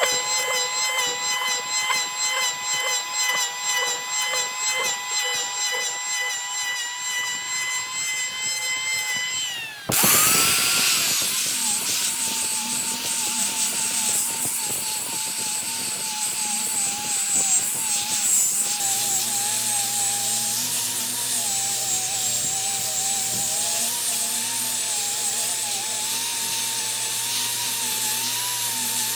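Power tools working wood. For about ten seconds a motor whines at a steady pitch with a regular pulsing, then it sharply gives way to a brighter, hissing tool sound with a wavering whine, joined by a low hum about two-thirds of the way in.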